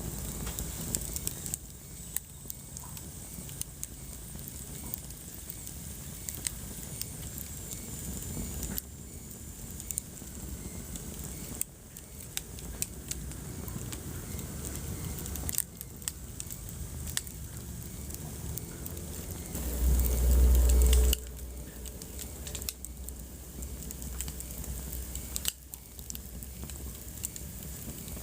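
Wood fire burning in a fireplace, crackling with scattered sharp pops over a low steady bed. About two-thirds of the way through, a louder, deep surge lasts a second or so.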